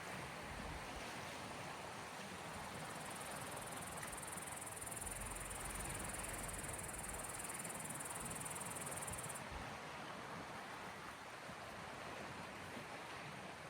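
Small waves washing gently on the Gulf of Finland shore, a soft steady wash. A high steady whine sits over it and cuts off suddenly about nine seconds in.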